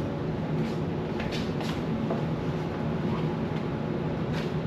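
A steady low mechanical hum with a few brief knocks or rustles on top of it.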